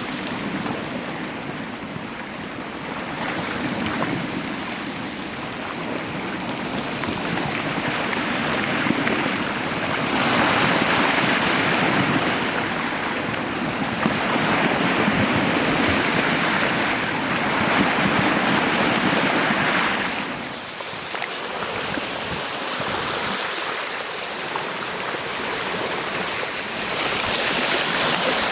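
Rushing water, surging louder and easing off again every few seconds.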